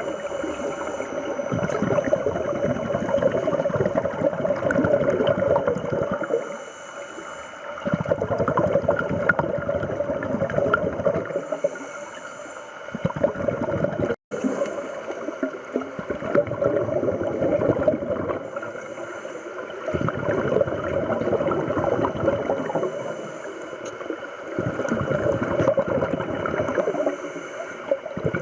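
Scuba diver breathing through a regulator, heard underwater: long bubbling, gurgling exhalations of several seconds alternate with short hissing inhalations, about five breaths in all. The sound drops out for an instant about halfway through.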